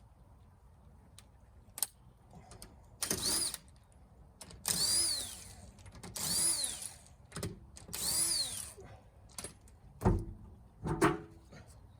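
Power tool driving wheel bolts in four short trigger bursts, each spinning up and winding down in pitch, then two knocks near the end.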